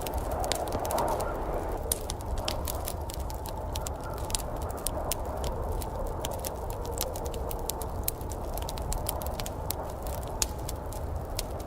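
Wood fire crackling in a fireplace, with frequent irregular sharp pops and snaps, over a steady low rumble and rushing storm noise that swells slightly in the first couple of seconds.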